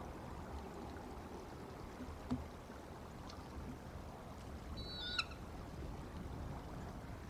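A single brief, high bird call about five seconds in, over a steady low outdoor rumble, with one short knock about two seconds in.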